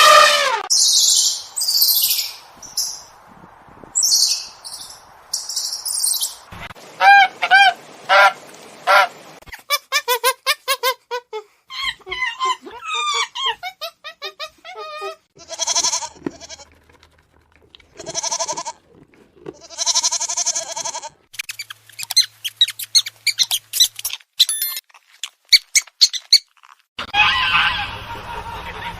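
A succession of different bird and animal calls that change every few seconds: shrill screeching calls at first, then rapid runs of short calls with a clear pitch, and near the end quick chirps and a dense chorus.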